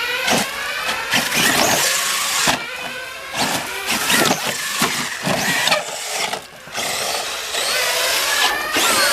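Kyosho Mad Crusher VE electric RC monster truck being driven hard: its motor whine repeatedly rises and falls in pitch as it speeds up and slows, broken by many sharp knocks and bangs.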